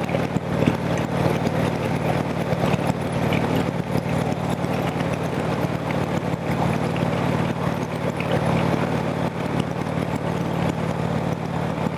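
Harley-Davidson motorcycle engine running steadily at cruising speed, heard through a handlebar-mounted action camera's microphone with heavy wind noise over it.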